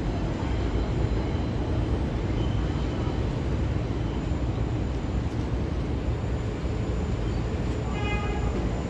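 R142/R142A subway train running with a steady rumble. A brief high-pitched tone sounds about eight seconds in.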